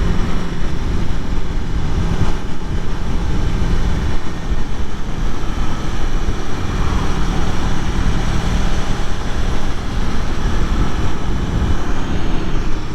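2021 Aprilia Tuono Factory motorcycle engine running under way at a fairly steady pitch, with a steady rush of wind noise over the top.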